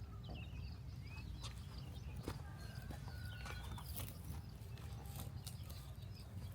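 Farm poultry: scattered short high chirps and many small clicks over a steady low rumble.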